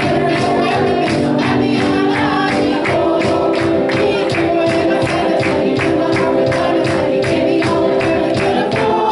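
Upbeat gospel worship music with singing and a tambourine shaken on a steady quick beat.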